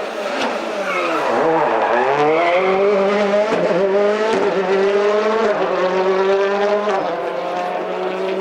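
Rally car engine coming off the throttle with falling revs, then accelerating hard, its pitch climbing and dropping sharply at each upshift, twice near the end.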